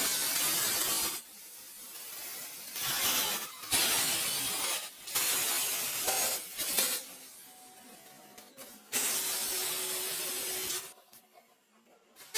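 Repeated bursts of hissing spray, each lasting one to two seconds, starting and cutting off sharply, with a quiet gap near the end.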